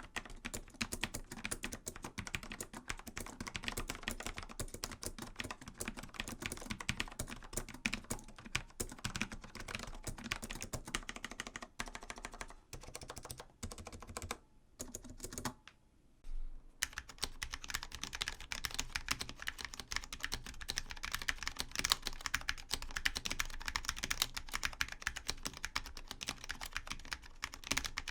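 Typing on a mechanical keyboard: rapid, continuous keystrokes. About fifteen seconds in there is a brief pause, after which the typing resumes with a brighter, sharper click, as from another switch or keyboard.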